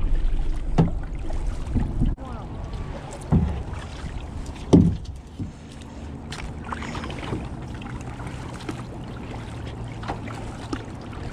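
Kayak being paddled: a few sharp knocks of the paddle against the hull, the loudest about five seconds in, with water sounds. Wind rumbles on the microphone and eases about two seconds in.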